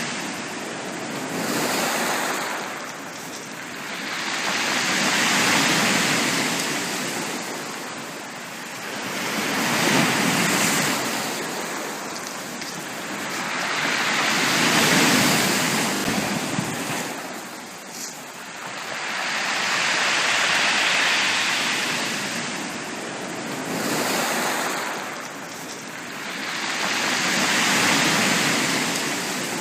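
Sea waves washing onto a beach, the surf swelling and fading in a slow rhythm about every four to five seconds.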